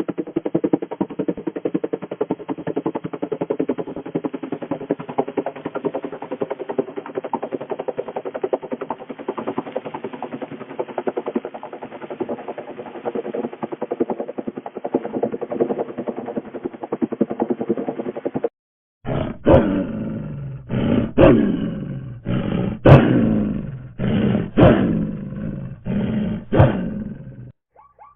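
A dense, rapid, steady rattling pulse for the first two-thirds. Then, after a short break, a tiger roars about eight times, each roar loud and falling in pitch.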